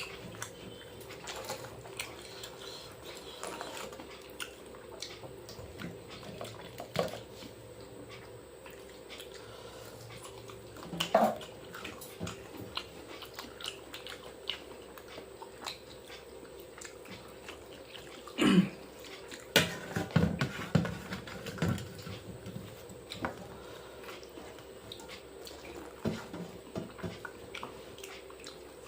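Eating by hand: many small wet clicks and smacks of chewing and fingers working rice soaked in water, with a few louder mouth noises about eleven seconds in and again around eighteen to twenty-one seconds. A steady faint hum runs underneath.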